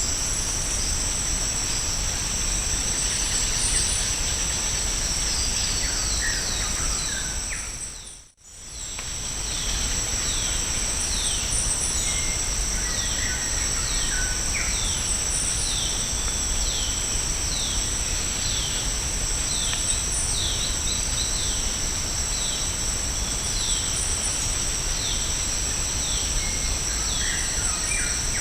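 Tropical rainforest ambience: a steady high insect drone, with a bird repeating short falling notes about once a second over a constant low rushing background. The sound drops out briefly about a third of the way in.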